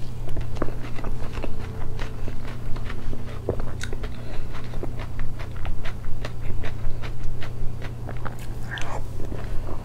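Close-miked chewing and mouth sounds of a person eating soft cream cake from a spoon: many small clicks throughout, over a steady low hum.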